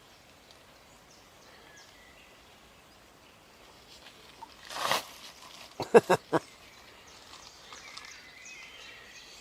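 Quiet outdoor background with faint bird chirps. About halfway through there is a brief rustle, then four or five quick sharp clicks in a row, like hard small objects knocking together.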